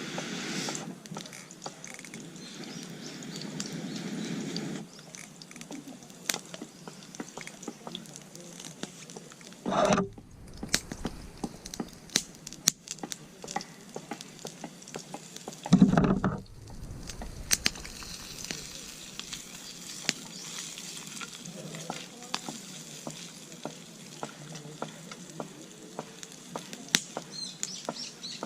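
Sizzling with scattered sharp crackles, from cooking over a wood campfire. Two brief, loud low thuds come about ten and sixteen seconds in.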